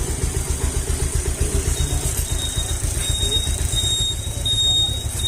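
Bajaj Pulsar 150's single-cylinder four-stroke engine idling steadily with a fast, even beat, running just after its balancer shaft timing marks were reset.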